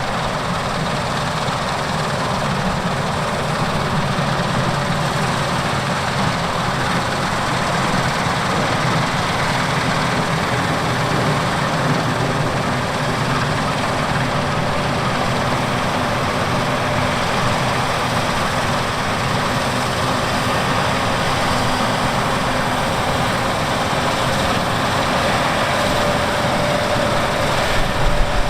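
Large farm harvest machinery running steadily, a continuous engine and mechanical noise without pauses, with a faint steady tone coming in near the end.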